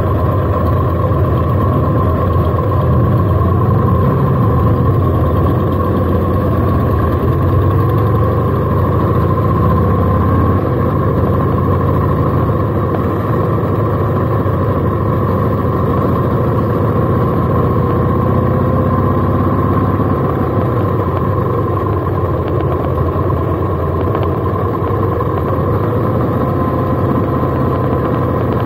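Cruiser motorcycle engine running steadily, heard from the bike itself as it pulls along a town road.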